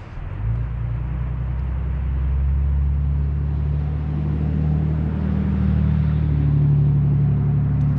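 A motor vehicle's engine drones nearby. It comes in about half a second in and holds a low, steady note that rises slowly in pitch.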